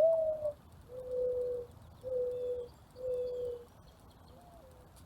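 Mourning dove cooing: a rising coo, then three level, lower coos about a second apart.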